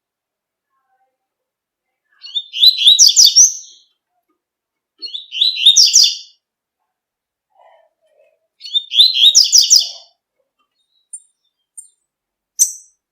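Double-collared seedeater (coleiro) singing its tui-tui song: three short, high phrases of quick repeated notes a few seconds apart, followed by a few brief single chirps near the end.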